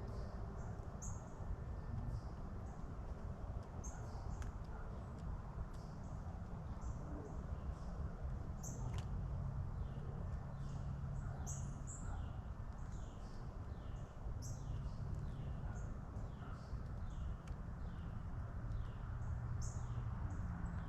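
Songbirds calling: short high chirps every second or two, and from about halfway a repeated series of down-slurred whistled notes, a little over one a second, over a steady low background rumble.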